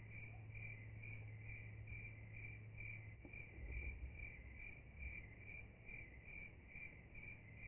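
Crickets chirping faintly in a steady, even rhythm, about two chirps a second, with a low hum underneath that stops about three seconds in.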